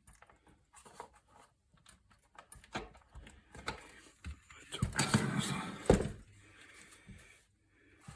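Scattered knocks, clicks and clatter of hand tools and parts being handled while working on a small engine. The handling is busiest around five to six seconds in, ending in a sharp knock.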